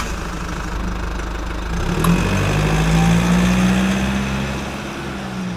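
A vehicle engine running, revving up about two seconds in and then settling back. It cuts off suddenly at the end.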